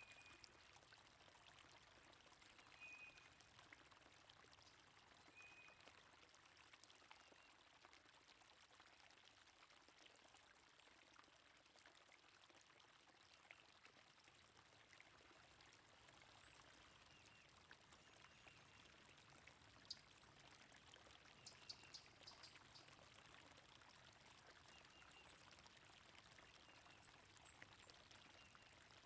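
Faint, steady rush of a flowing stream, with short, high bird chirps now and then.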